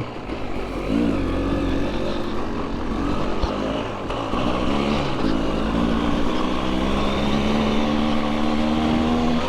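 Two-stroke dirt bike engine under way, its pitch dipping and rising several times with the throttle, then held steady for the last few seconds.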